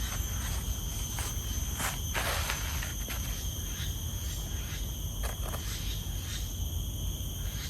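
Insects in the forest making a steady, high-pitched drone that holds two pitches throughout, with a few faint clicks and a low rumble underneath.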